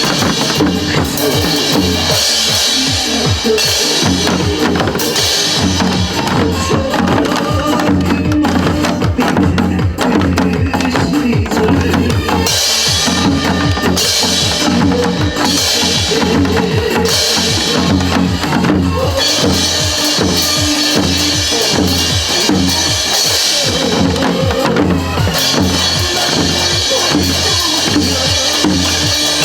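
Janggu drums played together by a group, beating a fast, steady rhythm along with recorded song accompaniment.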